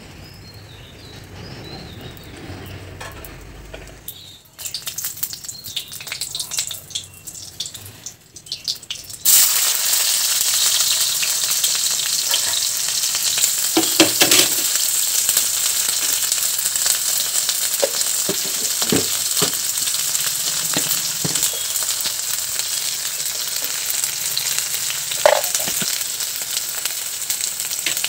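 Mustard oil heating in a kadai, crackling lightly at first. About nine seconds in, chilli, ginger and garlic paste goes into the hot oil and it sizzles loudly and steadily, with a few knocks of the spatula against the pan as it is stirred.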